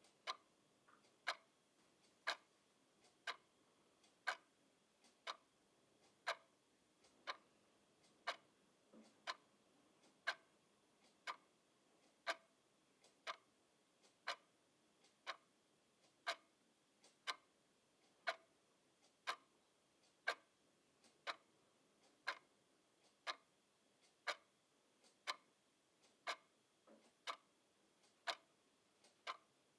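Clock ticking steadily, about one tick a second, with fainter ticks between some of the louder ones.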